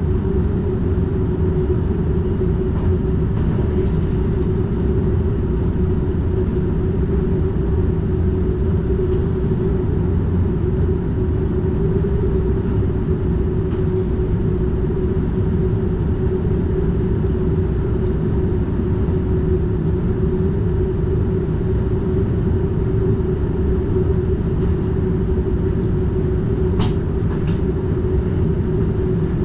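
NS DDZ double-deck electric Intercity train running steadily along the line, heard from inside the driver's cab: a constant rumble with a steady hum. Two short clicks come near the end.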